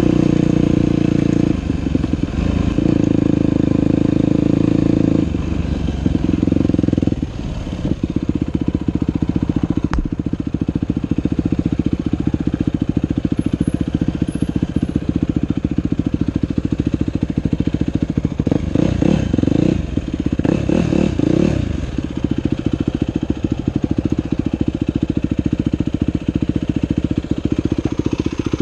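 Dirt bike engine running steadily for the first several seconds, then dropping to an idle. Two short revs come a little past halfway.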